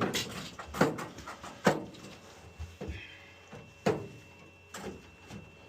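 Irregular knocks and clicks, about one a second, as parts are worked back into place inside a condensing boiler during reassembly.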